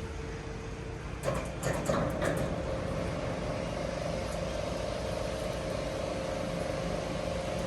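Heavy machinery running steadily with a sustained mechanical hum, and a few sharp metallic clanks between about one and two and a half seconds in.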